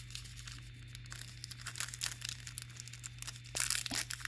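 Ramen seasoning packet crinkling and rustling as it is handled and opened, a crackly rustle that gets louder near the end.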